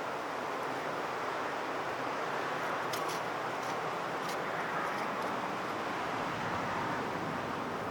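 Steady rushing noise with a few faint ticks about three to five seconds in.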